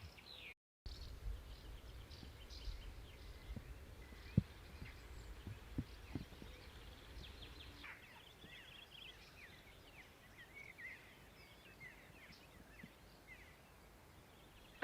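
Small birds chirping and singing over quiet outdoor ambience, with a low rumble in the first half and a few soft knocks, the sharpest about four seconds in.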